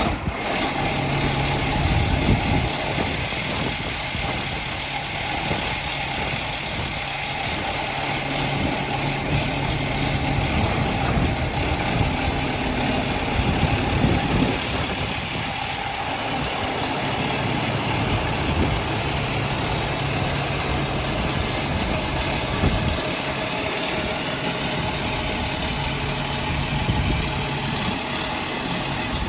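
Diesel engine of a 1997 Case IH 9330 articulated four-wheel-drive tractor idling steadily.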